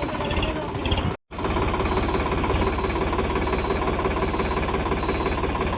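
Diesel tractor engine running steadily, with a brief complete break in the sound about a second in.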